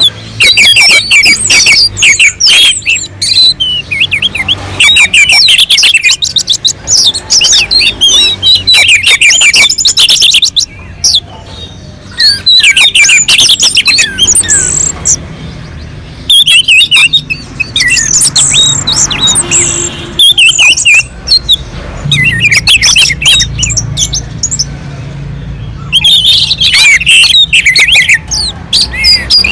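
Orange-headed thrush singing loudly in long, rapid, richly varied warbling phrases, broken by a few short pauses. This is the persistent 'gacor' song used as a lure to set other thrushes singing.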